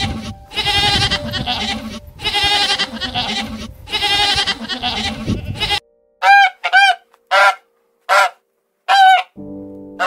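Domestic goats bleating: three long, wavering bleats over the first six seconds. Then domestic geese honking: five short honks in about three seconds.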